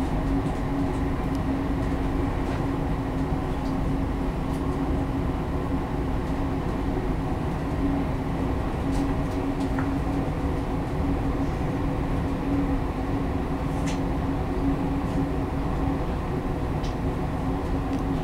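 Electric passenger train running at speed, heard from inside the carriage: a steady rumble with a constant low hum and a few faint clicks.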